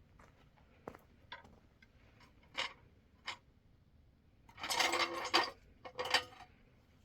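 Scattered light clicks and knocks, then a louder stretch of clattering, scraping noise about five seconds in and a shorter one just after six seconds.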